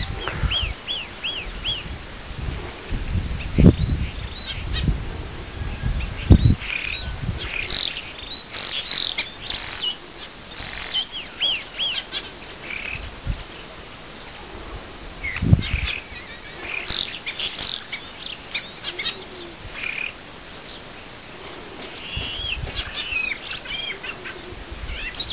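Small songbirds singing and calling: repeated short rising whistled notes and high chirps through the whole stretch. A few low thumps stand out about four, six and fifteen seconds in.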